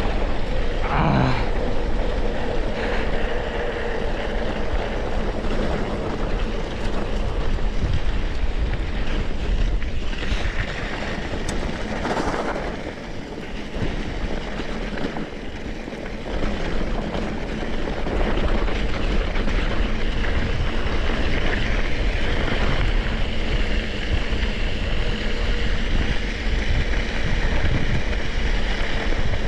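Steady rushing noise of wind buffeting the microphone, mixed with tyre and frame noise from a mountain bike riding a trail. Two brief rising tones come about a second in and again about twelve seconds in.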